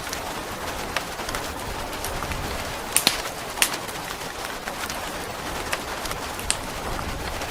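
Steady rain hiss with the sharp, irregular crackles and pops of a burning log fire.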